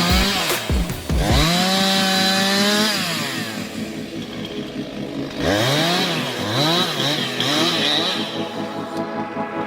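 Chainsaw revving: it climbs to full throttle and holds for about a second and a half, drops back, then gives several quick blips of throttle in the second half.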